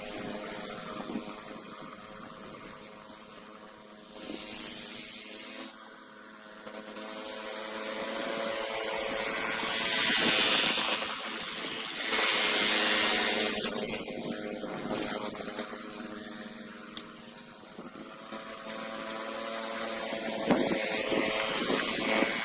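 Ariens snowblower engine running steadily, with louder rushes of noise every few seconds.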